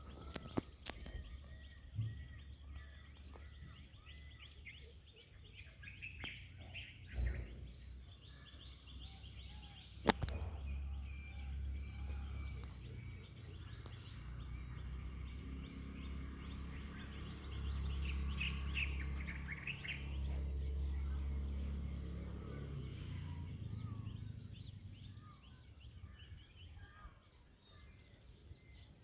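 Birds chirping intermittently over a steady low rumble, with a sharp click about ten seconds in.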